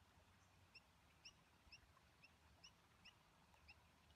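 Near silence, with a small bird's faint high chirps repeating about twice a second.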